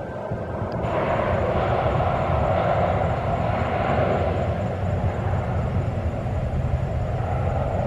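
Jet airliner engines running: a steady, even noise with a deep rumble underneath.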